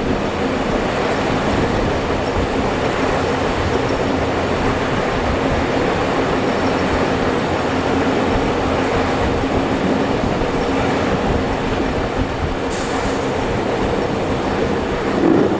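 Steam-hauled passenger train running at speed, heard from aboard a carriage: a steady rumble of wheels on the track with a faint steady tone through it.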